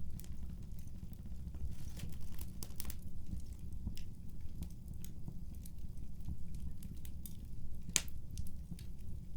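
Fireplace crackling: scattered small pops and snaps over a low steady rumble, with one sharper crack about eight seconds in.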